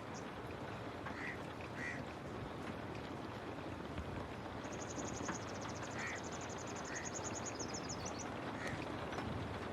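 Steady rain falling, with birds calling over it: a few short calls, and a long, fast, high-pitched trill from about five seconds in to about eight seconds in.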